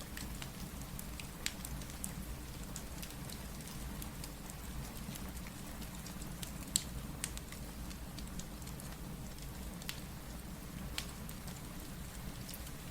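Steady rain with a low rumble underneath, mixed with the irregular sharp pops and snaps of a wood fire crackling. The loudest pop comes about seven seconds in.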